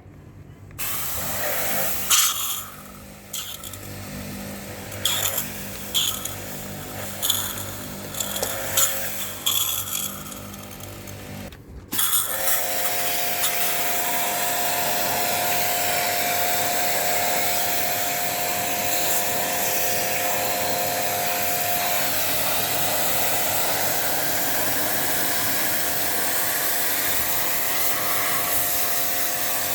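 Irregular knocks and short hissing bursts, then about twelve seconds in a small electric machine starts suddenly and runs steadily with a whine and a hiss.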